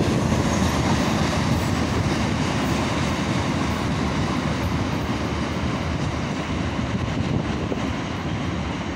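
Freight train of railway tank cars rolling away along the track: a steady rumble of wheels on rails that slowly fades.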